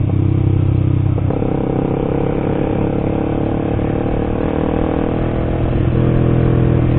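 Honda CBR150R single-cylinder engine running under way as the motorcycle is ridden, its note shifting about a second in and again near the end.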